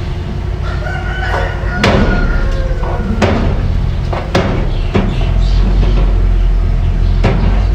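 Mini bulldozer running steadily, with several sharp metal clanks and a brief high squeal, typical of the tracks and blade at work.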